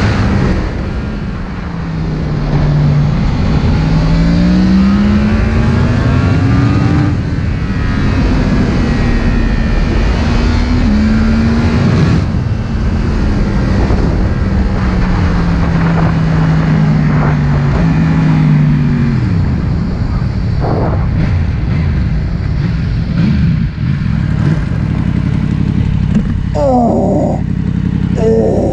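Yamaha MT-10's crossplane inline-four riding under way through its Akrapovic silencer, the engine note climbing steadily in each gear and dropping sharply at every upshift. It falls away steeply around two-thirds of the way in as the bike slows.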